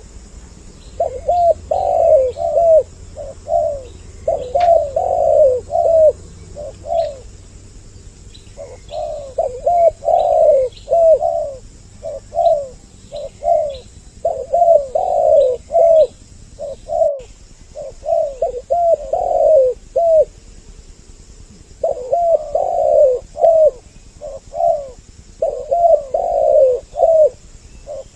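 Two spotted doves cooing over and across each other in repeated runs of low, loud coos, broken by short pauses. The recording is a lure call used to draw wild doves in.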